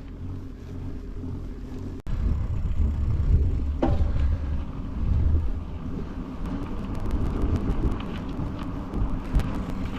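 Wind rumbling over the microphone of a bicycle-mounted action camera during a slow ride. The rumble cuts out briefly about two seconds in, and scattered light ticks come in over the last few seconds.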